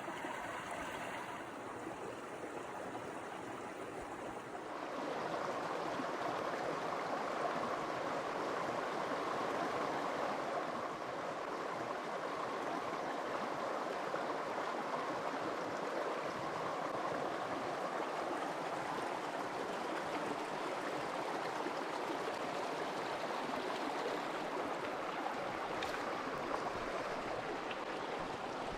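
Stream water flowing steadily, a continuous rushing that grows louder about five seconds in.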